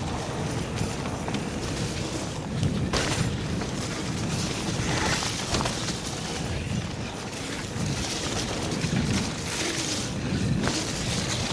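Calibre Triple B mountain bike ridden along a wet, muddy trail: a rough rumble of tyres and drivetrain, with a few sharp knocks and rattles of the bike over bumps, about 3 and 5 seconds in.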